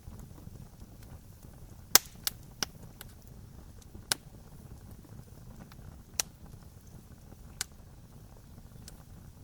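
Campfire crackling: a low, steady burning rumble with scattered sharp pops of burning wood, the loudest about two seconds in and a quick run of three, then single pops every second or two.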